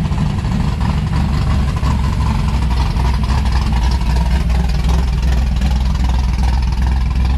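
Vehicle engine running steadily with a deep, even rumble.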